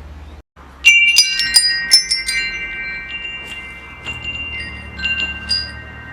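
Metal wind chimes struck in a quick cluster about a second in, the tubes ringing on in several long, steady tones that slowly fade, with a few softer strikes near the end.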